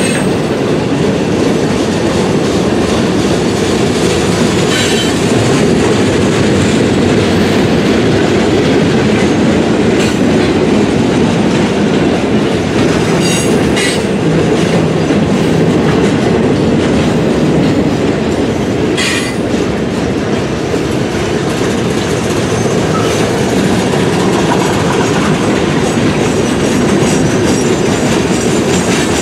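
Freight train cars rolling past close by: a loud, steady rumble of steel wheels on rail with clickety-clack over the rail joints and a few brief, high wheel squeals.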